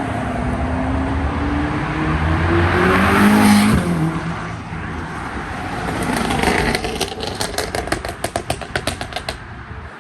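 A car accelerating hard past, engine revs climbing to a peak about three and a half seconds in and dropping in pitch as it goes by. Near the end comes a rapid run of sharp pops, about eight a second, for two to three seconds.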